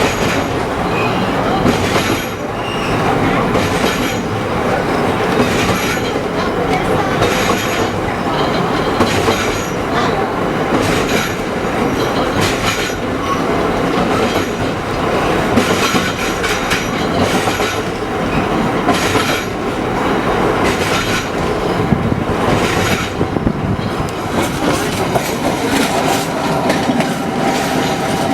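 Vintage Melbourne tram rolling along the rails, heard from on board: a steady running rumble with the wheels clicking over rail joints again and again.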